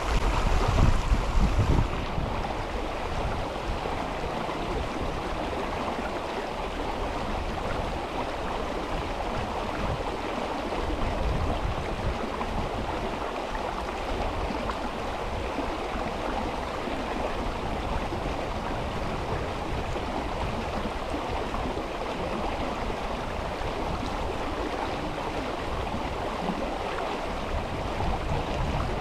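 Mountain river water rushing steadily. It is louder, with a low rumble, for about the first two seconds, then settles to an even flow.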